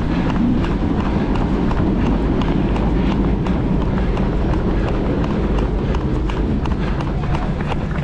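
A runner's footfalls on pavement at a steady running pace, about three steps a second, over a steady low rumble.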